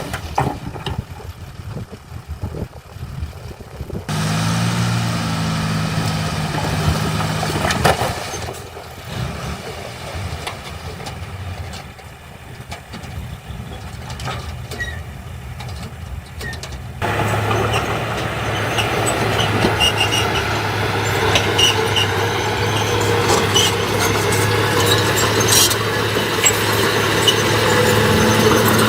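Diesel engines of heavy earthmoving machinery running, with scattered clanks and squeaks. The sound steps up abruptly about four seconds in and again, louder and steadier, about seventeen seconds in.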